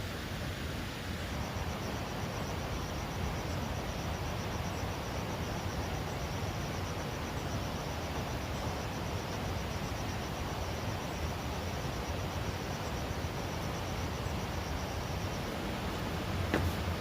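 An insect gives a high, rapidly pulsed trill over a steady outdoor noise. The trill starts about a second in and stops near the end, and a single sharp click comes just after it stops.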